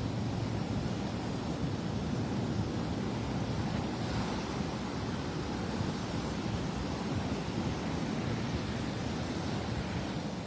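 Surf breaking and washing ashore, a steady rush of noise, with wind buffeting the microphone.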